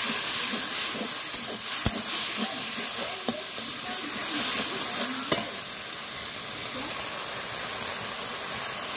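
Wet spice paste sizzling in an iron kadai as a metal spatula stirs and scrapes it. The spatula knocks sharply on the pan just before two seconds in and again about five seconds in. The sizzle grows quieter in the second half.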